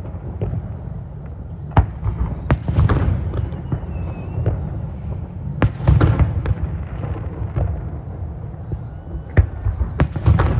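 Aerial fireworks bursting overhead: several sharp bangs, two close together about two seconds in, one near the middle and two near the end, each followed by a rolling rumble and crackle.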